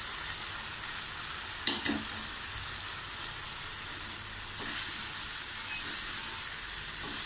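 Boiled elephant foot yam cubes and ground masala sizzling in hot oil in a kadai, stirred with a slotted steel spatula: a steady frying hiss with two short spatula strokes against the pan.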